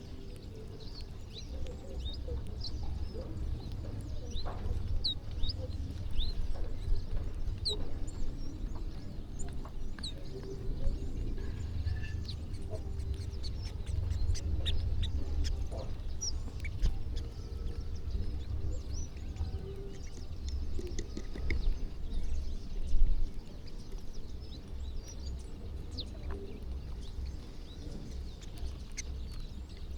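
A flock of birds feeding, with many short chirps and calls scattered throughout, over a steady low rumble. A brief louder knock comes about three-quarters of the way through.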